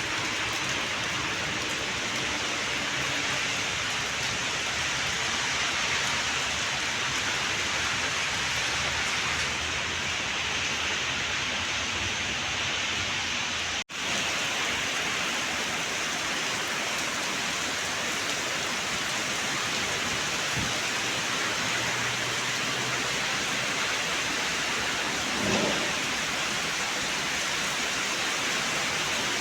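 Heavy rain pouring steadily: a dense, even hiss. The sound drops out for an instant about halfway through.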